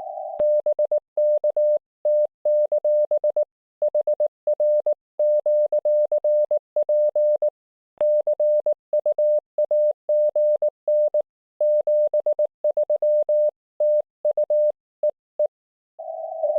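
Morse code (CW) sent as a clean, steady tone of one pitch from an IC-705 transceiver, keyed in short and long elements with silent gaps between characters. Two sharp clicks, one about half a second in and one about eight seconds in.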